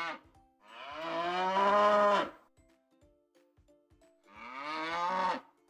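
Domestic cow mooing: two long moos, the louder one starting about half a second in and a shorter one near the end, each with its pitch bending down at the close.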